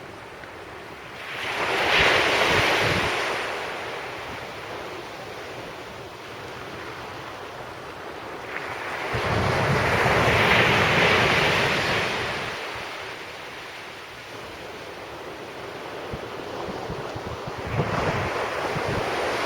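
Surf breaking on a beach: three swells of wave noise rising and falling about eight seconds apart, with wind on the microphone.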